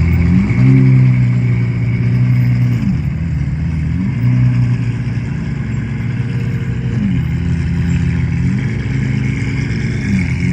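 Supercar engine running at low revs, its pitch stepping up and dropping back three times.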